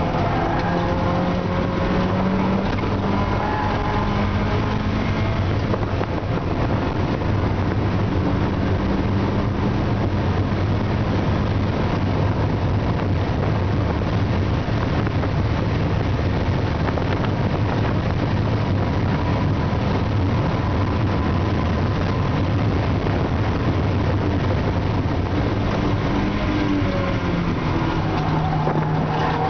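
Mazda Eunos Roadster's 1.6-litre B6ZE four-cylinder engine running hard on track, heard from inside the cabin, its pitch rising and falling as the car accelerates, shifts and slows, over a steady rush of noise.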